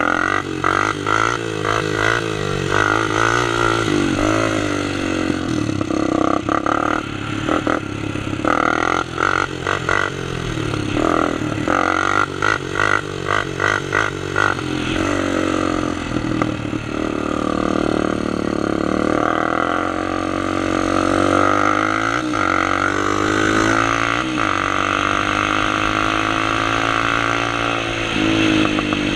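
Honda sport quad engines, single-cylinder four-strokes, running and revving as the ATVs are ridden, the pitch rising and falling again and again.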